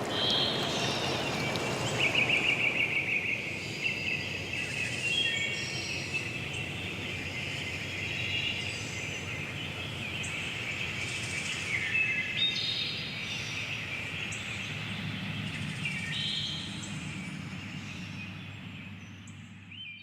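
Several forest birds singing and calling with quick chirps and trills, over the faint hiss of running water that is stronger in the first few seconds. The whole mix fades out at the very end.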